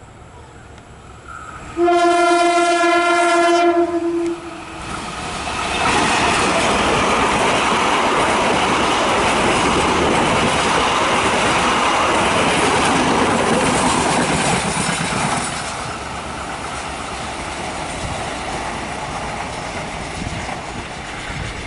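Locomotive horn sounding one long blast about two seconds in, then a train running past with loud rail noise that lasts about ten seconds before dropping to a lower rumble near the end.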